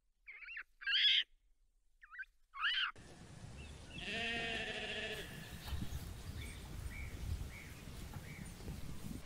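A sheep bleating once, a long wavering call about four seconds in, over steady outdoor background noise, with a few faint chirps after it. Before it, in the first three seconds, come two pairs of short, high, swooping calls.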